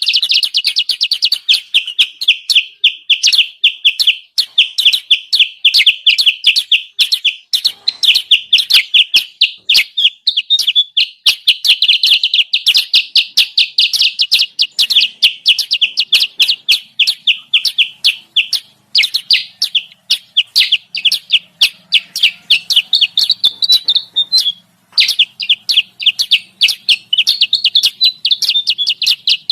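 Bird-lure recording of kutilang sutra calls: a rapid, continuous chatter of short, high chirps, several a second, with one brief pause about three-quarters of the way through.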